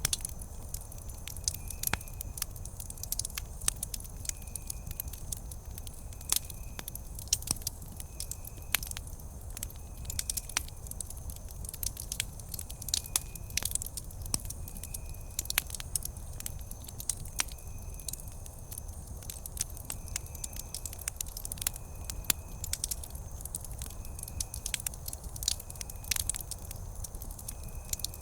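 Wood campfire crackling, with many sharp pops and snaps over a low steady rumble. A faint short high chirp repeats about once a second.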